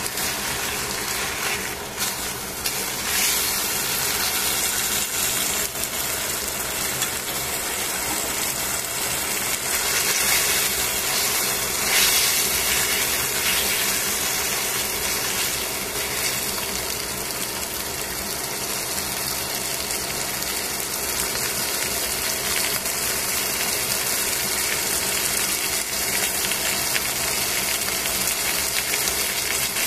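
Chicken frying in oil in a stainless steel pan, sizzling steadily; the sizzle swells briefly about ten to twelve seconds in.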